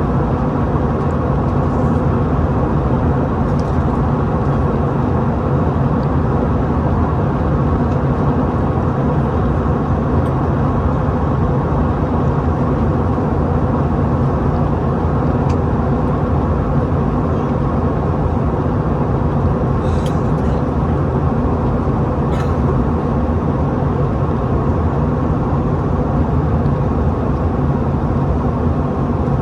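Steady cabin noise inside an Airbus A321-211 airliner: the low hum of its CFM56 jet engines mixed with the rush of airflow, unchanging throughout, with a couple of faint clicks about twenty seconds in.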